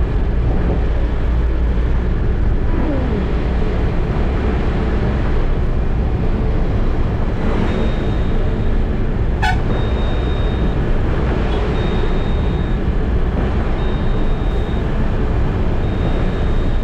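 Eicher truck driving with a steady low engine and road rumble. From about halfway through, a high-pitched electronic beep sounds about once every two seconds.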